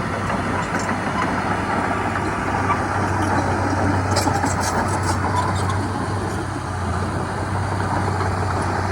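Heavy diesel earthmoving engine running steadily with a low hum, the kind of a bulldozer or dump truck working. A few short metallic clicks about four to five seconds in.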